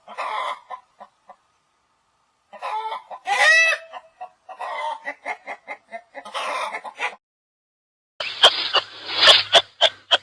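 Chickens clucking and squawking in several bouts. About eight seconds in, a different sound takes over: a noisy buzz with a low hum and sharp clicks.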